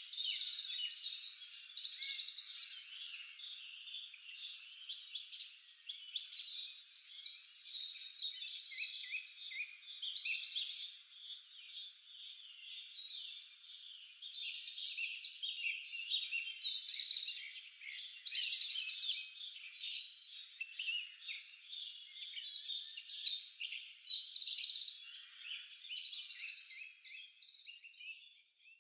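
Many small birds chirping and singing at once: a dense chorus of overlapping quick chirps and trills that swells louder and fades several times, then stops just before the end.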